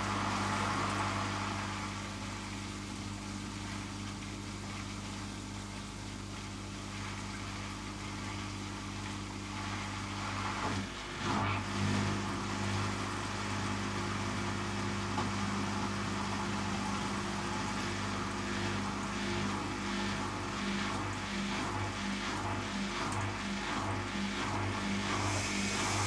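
Zanussi ZKN7120L washing machine running: a steady motor hum that changes about eleven seconds in and then pulses in a fast, even rhythm, with a rising hiss near the end.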